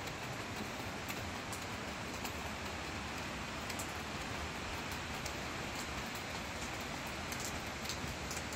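Steady rain: an even hiss of rainfall with scattered sharp drops ticking close by.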